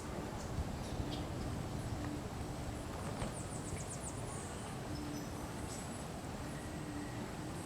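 A bird calling: a quick run of about a dozen very high, short notes, each dipping in pitch, about three seconds in, over steady outdoor background noise.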